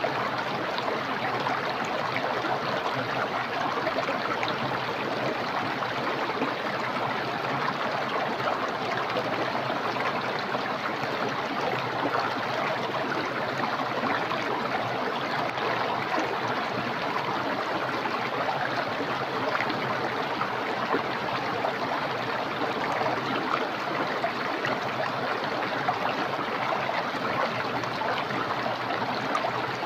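A small, clear, fast-flowing stream running over rocks: steady rushing and burbling water.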